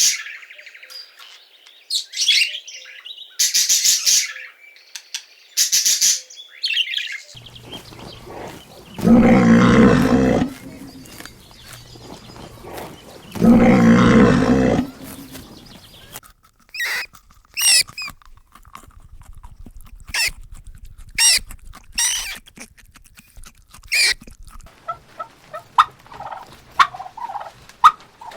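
A run of animal calls: short high bird chirps, twice broken by a louder, longer call from a larger animal about a second each, then more thin high chirps and some fainter calls near the end.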